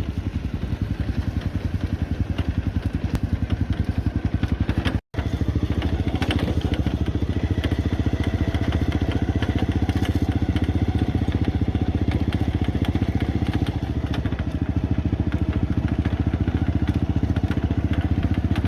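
Small engine running steadily with a fast, even putter, as of a go-kart under way; it cuts out for an instant about five seconds in.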